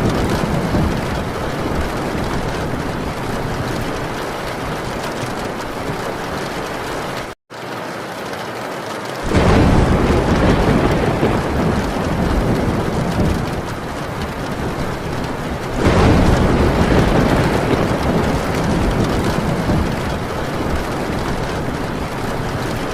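Heavy rain drumming steadily on a metal tin roof, with two rolls of thunder swelling in suddenly about nine and sixteen seconds in. The sound drops out for an instant about seven seconds in.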